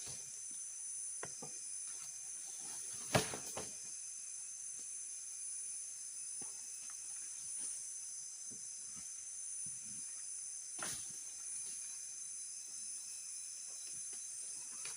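Steady high-pitched drone of forest insects such as crickets. Two sharp knocks sound over it, one about three seconds in and a weaker one near eleven seconds, with faint scattered ticks in between.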